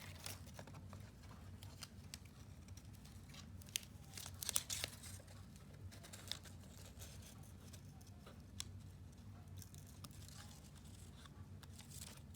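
Faint rustling and crinkling of cardstock and paper being handled, with glue dots peeled from their backing paper. Scattered small clicks and peels, loudest about four to five seconds in, over a low steady hum.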